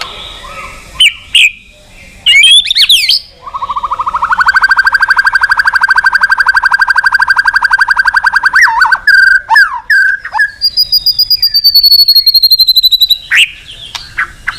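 White-rumped shama (murai batu) in full song: a few quick whistled notes, then a fast rattling trill held for about five seconds, then a long high whistle that slowly falls in pitch, with more short notes near the end.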